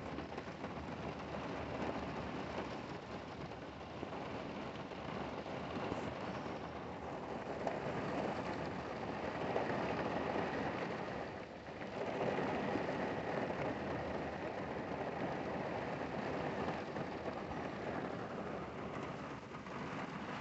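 Rain falling on a car's roof and windows, heard from inside the car, mixed with the wash of the car driving on the wet road. A steady hiss that swells louder twice near the middle, with a brief dip between.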